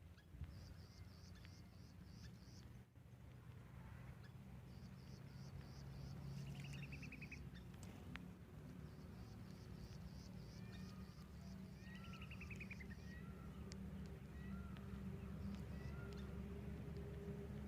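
Small birds chirping faintly: repeated quick runs of short high chirps, with a couple of lower rattling trills and scattered short calls, over a steady low hum.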